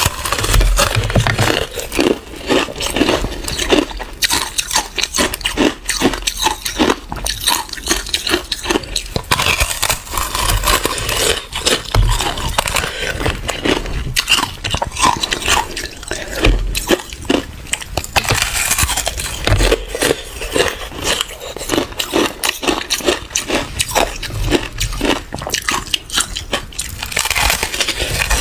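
Close-miked biting and chewing of crunchy ice: a dense run of crackling crunches that goes on without pause.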